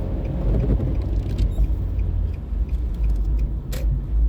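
Inside a car driving on snowy roads: a steady low rumble of engine and tyres, with a few faint clicks.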